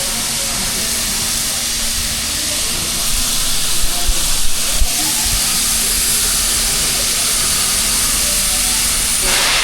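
Steam locomotive hissing steadily as it vents steam, with a few low knocks about four to five seconds in.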